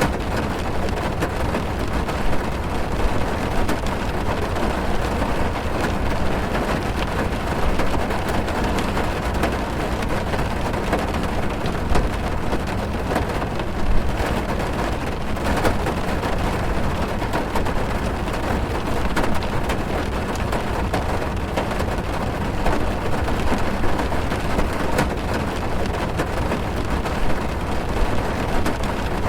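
Heavy rain drumming on a car's roof and windows, heard from inside the car, as a steady dense patter with a deep rumble beneath.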